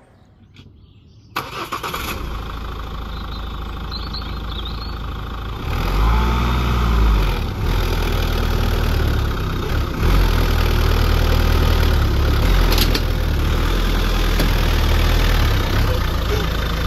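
Ford Mondeo Mk4 2.0 TDCi four-cylinder diesel engine starting about a second in and running, then revved up in surges as the car is driven up onto ramps. The sound cuts off abruptly near the end.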